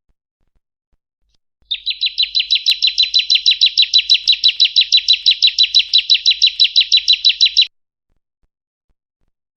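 A small bird's rapid trill: even, fast-repeated notes at about six a second, starting about two seconds in and cutting off suddenly near the eighth second.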